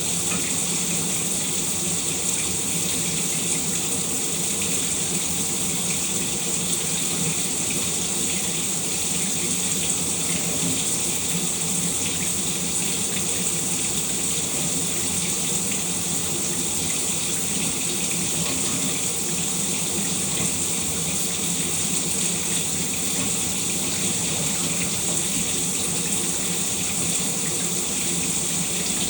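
Shower running steadily: the water spray makes an even, unchanging hiss.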